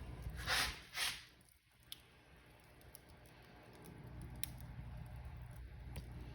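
Wood fire burning in a fireplace: a low steady rumble of flame with scattered crackles and sharp pops, and two brief hissing bursts about half a second and a second in.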